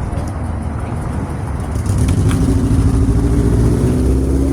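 Diesel engine of a loaded dump truck running. About two seconds in it gets louder and pulls harder, its pitch slowly rising as it accelerates.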